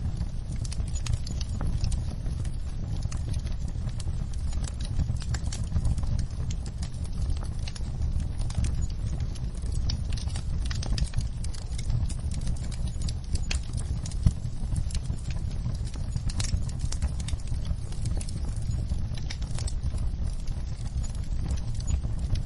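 Burning logs in a fireplace crackling and popping over a steady low rumble of the fire, with frequent sharp snaps and one louder pop about fourteen seconds in.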